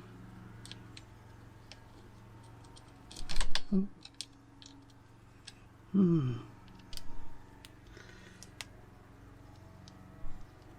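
Scattered light clicks and taps of a screwdriver and plastic trim being handled on a van's steering column while working at a small corroded star-head screw, with a few louder knocks about three and a half and six seconds in.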